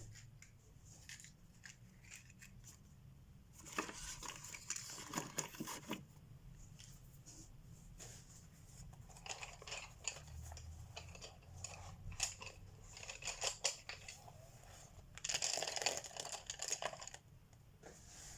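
Colored pencil scratching across paper in quick shading strokes, in three spells with short pauses between.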